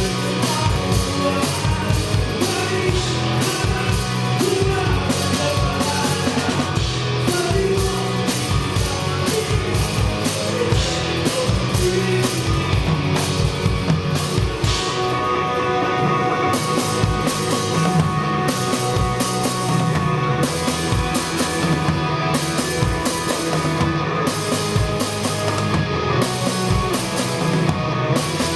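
Live rock band playing a song, heard from beside the drum kit, with a steady beat of drum hits running through the guitars and bass.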